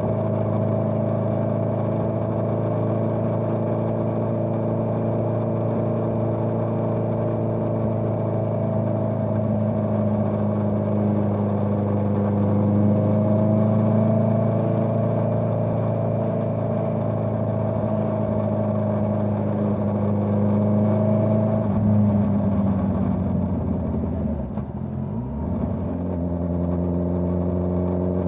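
Honda CBR650R's inline-four engine with a Dominator GP full-system exhaust, ridden at fairly steady revs. About two-thirds of the way through the revs drop away, then rise again near the end.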